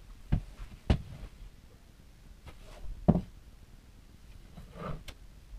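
A few separate knocks in a small room: two sharp ones in the first second, a louder one about three seconds in, and a softer, duller thump near the end.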